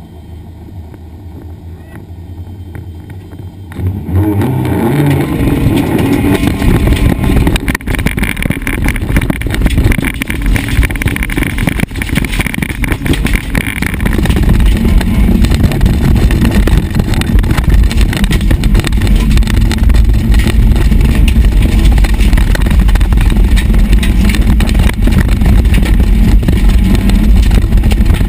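SEAT Ibiza autocross car's engine heard from inside the stripped cabin. It idles at the start line for about four seconds, then jumps suddenly to full-throttle acceleration and keeps revving hard and loud, rising and falling, as the car is driven flat out over the dirt course.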